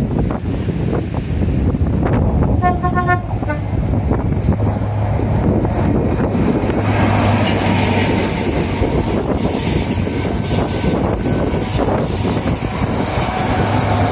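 A train running past on the seawall line, its rumble mixed with wind on the microphone, with a short horn toot about three seconds in.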